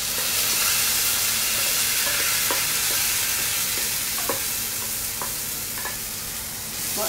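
Wet ground onion, green chili, ginger and garlic paste hitting hot oil in a kadai, sizzling loudly and steadily and easing slightly toward the end, with a few short scrapes of a wooden spatula against the steel bowl.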